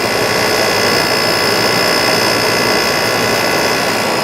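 Window air conditioner (2002 Whirlpool 5,000 BTU, Rechi rotary compressor) running steadily under load, with a heater blowing warm air into it: a loud, even rush of airflow with a steady high whine over it.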